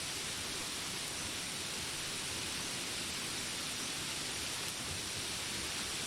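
Steady rain, an even hiss with no single drops or animal calls standing out.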